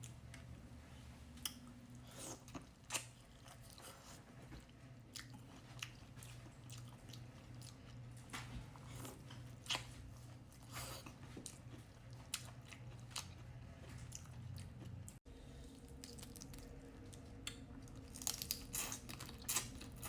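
Close-up mouth sounds of eating boiled seafood: chewing and biting, with scattered sharp cracks and crunches of shells. The cracks come thicker near the end.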